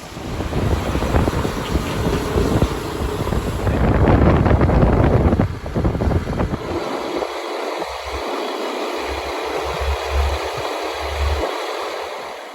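Wind buffeting the microphone over the noise of a moving road vehicle, loudest in the first half and then coming in gusts.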